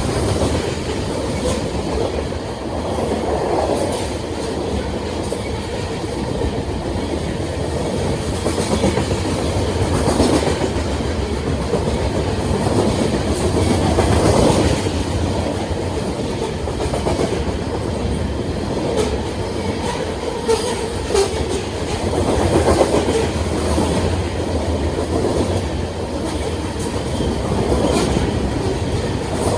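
Union Pacific grain train's freight cars rolling steadily past, a continuous rumble with wheels clacking over the rail joints and occasional sharp clicks.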